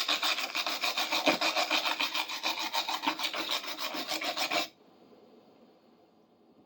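Hand wire brush scrubbing dirt and rust off an old steel wrench, with fast back-and-forth strokes. The scrubbing stops abruptly a little past halfway and starts again just at the end.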